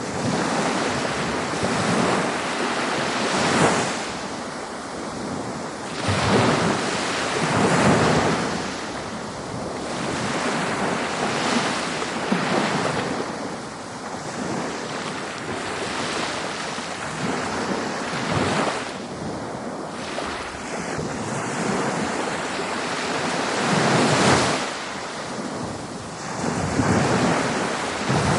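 Ocean waves breaking on a beach, a continuous hiss of surf that swells and falls every few seconds as each wave comes in and washes back.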